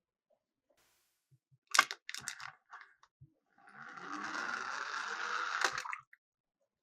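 Miniature diecast toy cars knocking onto a plastic track, a sharp click followed by a few lighter ones, then a steady rolling rattle for a little over two seconds that stops with a final click.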